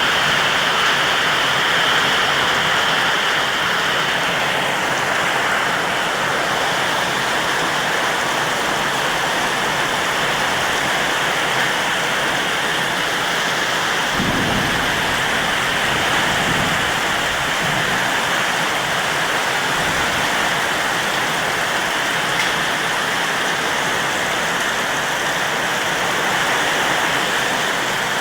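Heavy rain pouring down steadily in a thunderstorm, with a low rumble of thunder about halfway through.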